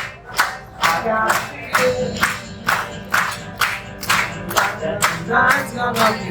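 A dining-room crowd clapping in time, about two claps a second, along with music and singing voices, as the catering staff parade around the room.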